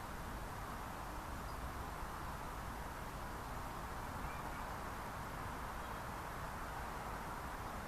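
Wind blowing through dry grass: a steady, even rustling hiss with a low rumble underneath.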